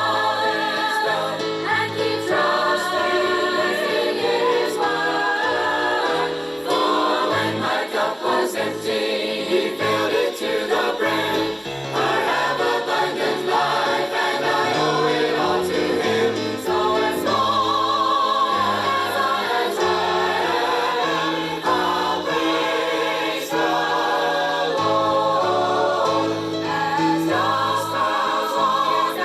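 A choir singing a gospel song with instrumental accompaniment and a steady bass line.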